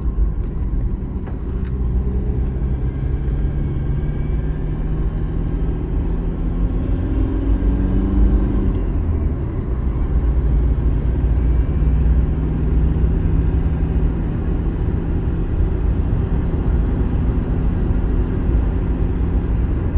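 Car engine and road rumble heard from inside a moving car, steady throughout, with the engine note shifting slightly about halfway through.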